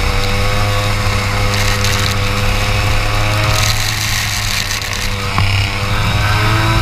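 Racing kart engine running under load. Its note holds steady, eases off a little midway and picks up again near the end, with bursts of hiss from the wet track.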